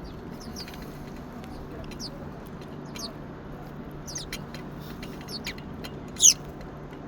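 Small birds chirping: a scatter of short, high, down-sliding chirps every second or so, the loudest about six seconds in, over a steady background murmur.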